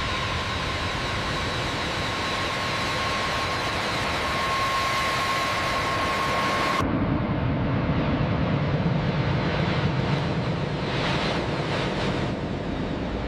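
Jet aircraft engines running with a steady whine over a hiss, cutting abruptly about seven seconds in to a deeper, lower rumble.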